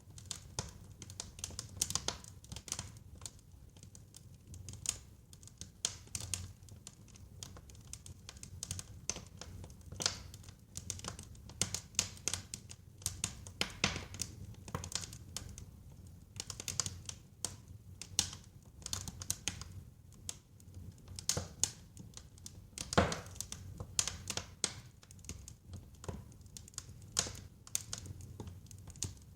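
Wood fire in a fireplace crackling and popping irregularly over a low rumble of the flames, with one louder pop a little before the end.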